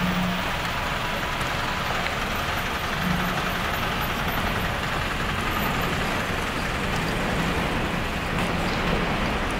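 Steady rumbling running noise of an electric train at the station platform, with a low hum that comes and goes.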